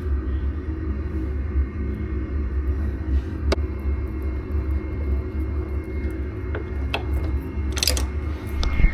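Steady low mechanical rumble of running machinery, with a faint steady high tone and a few light clicks scattered through it.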